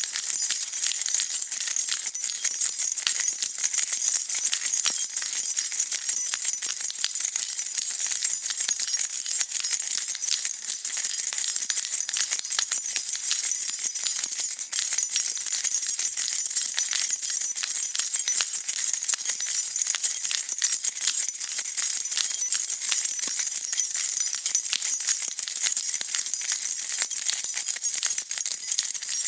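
A bunch of metal keys being shaken and jingled continuously, a dense, bright, steady rattle of keys clinking together.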